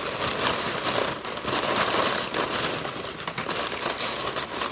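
Bag of chips crinkling and rustling as chips are shaken out of it into a container, a continuous crackle of small clicks.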